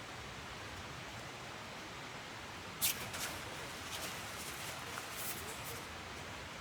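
A steady hiss of outdoor ambience with a handful of brief rustles and clicks, the loudest about three seconds in.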